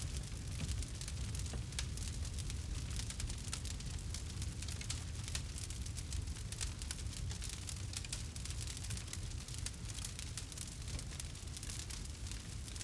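Campfire burning: wood crackling in many small, irregular snaps over a low, steady rumble.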